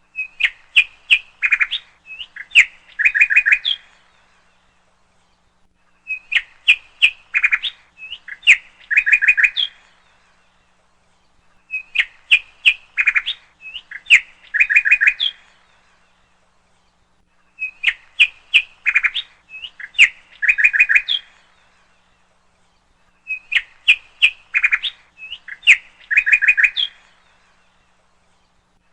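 Birdsong: a phrase of quick high chirps ending in a rapid trill, about four seconds long, repeated exactly the same about every six seconds with silence between.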